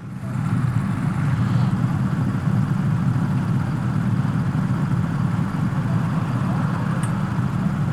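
Royal Enfield Himalayan 450's single-cylinder engine running at a steady speed, a low even drone with a haze of noise above it.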